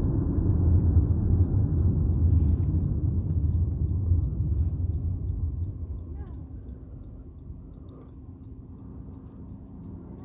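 Low rumble of a car's engine and road noise, loud for the first five seconds or so, then fading to a quieter hum.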